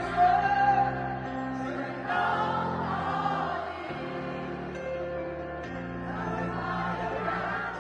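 Live concert music: many voices singing a melody together over held chords and a slow-moving bass line.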